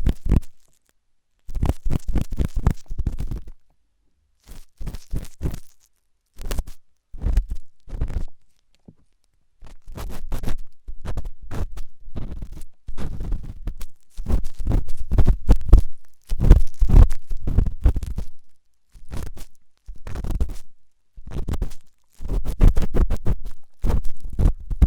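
Ear pick scraping hard inside a microphone's ear: clusters of fast, close-up scratching strokes, each run lasting about one to three seconds with short silent pauses between them.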